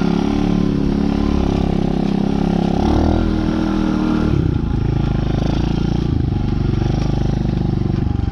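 DB14 youth dirt bike's small engine running while ridden, holding steady revs, then dropping to a lower, pulsing note about four seconds in.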